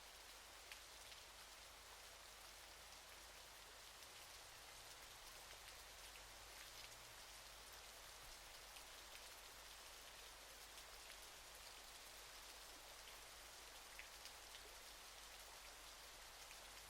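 Faint, steady rushing of a waterfall, with a few soft drop splashes scattered through it.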